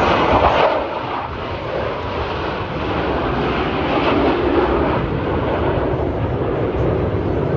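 Jet noise from F-16 Fighting Falcon fighters flying past, a loud rushing sound that is strongest in the first second and swells again about four seconds in.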